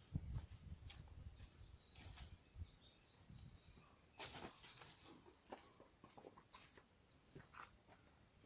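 Faint wood fire crackling, with irregular small pops and snaps and a cluster of them about four seconds in.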